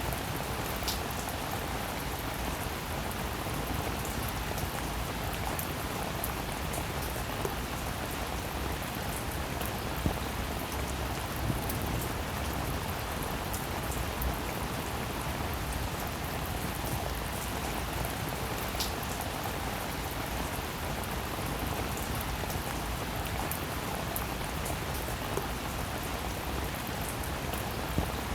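Steady rainfall: a dense, even hiss of rain with many individual drops ticking through it and a few louder drop hits.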